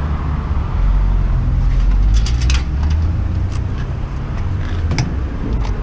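Steady low engine rumble, with a few sharp metallic clicks and clinks from screws and parts as a desktop computer is taken apart.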